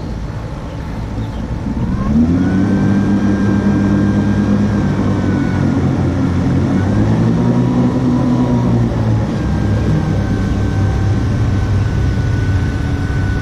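Small boat motor running under load while pushing the boat through a shallow, muddy swamp canal. It revs up about two seconds in, dips and picks up again midway, then settles to a steady drone.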